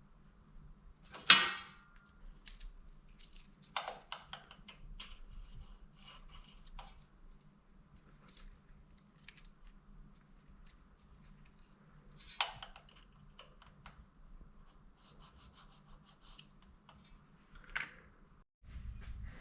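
Handling noises: scattered knocks and clicks with light rubbing and scraping over a faint low hum, the sharpest knock about a second in.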